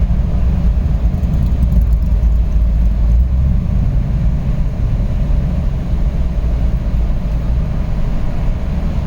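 Jeep driving along, a steady low engine and road rumble.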